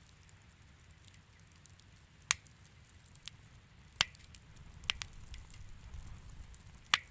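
Wood fire crackling in a fireplace: a steady low rumble of flame under many small crackles, with four louder sharp pops spread through.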